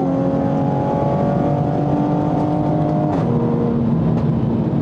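Turbocharged 2020 Toyota Supra's inline-six heard from inside the cabin, pulling steadily with its pitch creeping up, then dropping suddenly about three seconds in as it shifts up a gear.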